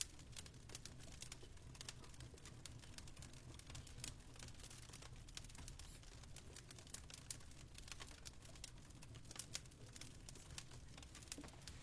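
Fireplace fire crackling softly: scattered sharp pops and clicks over a steady low hum.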